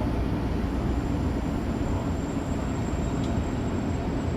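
Steady low rumble and hum of a Tokyo Metro 05 series train, with a thin high-pitched whine that starts about a second in.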